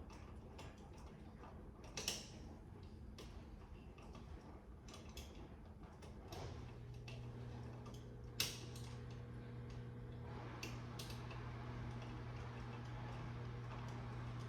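Scattered small clicks and taps of a hand screwdriver working the screws and wires of a wall electrical outlet, with two sharper clicks. A steady low hum comes in about halfway through.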